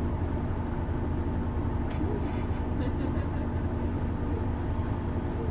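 Isuzu Erga city bus's six-cylinder diesel engine running steadily under way, heard from inside the cabin as an even low drone with steady tones above it.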